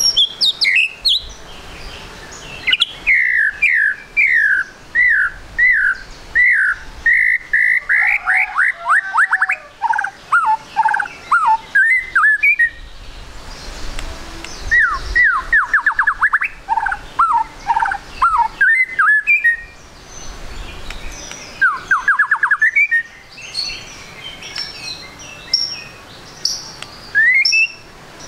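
White-rumped shama (murai batu) singing: phrases of rapid, repeated down-sliding notes, with short pauses between phrases.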